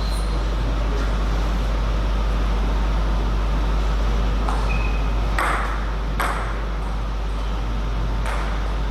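A table tennis ball clicking against bats and table a few times in a short irregular run through the second half, over a steady low hum.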